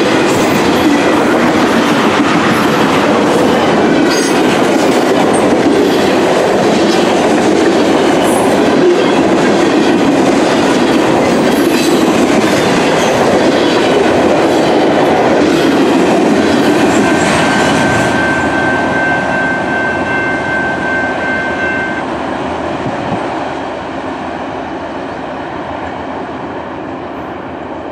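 Freight cars of a long mixed freight train rolling past: a steady rumble with the clickety-clack of wheels over rail joints. A thin high squeal, typical of wheel flanges, comes in for several seconds after the middle. The sound then fades as the last cars go by.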